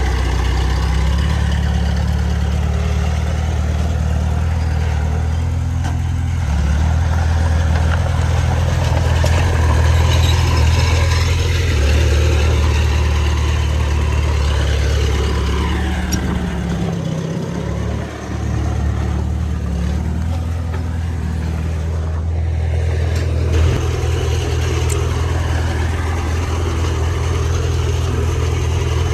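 Heavy diesel engine of a bulldozer running under load, a steady low rumble that swells and eases as the work goes on, with a brief dip about eighteen seconds in.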